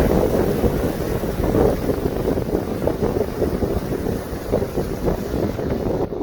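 Wind buffeting the microphone aboard a moving lake boat: a gusty, uneven rumble with no clear engine note.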